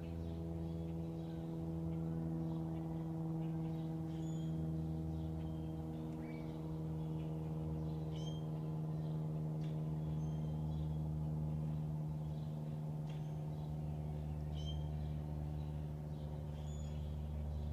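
A steady machine hum made of several even tones, unchanging throughout, with small birds chirping in short high calls every second or two.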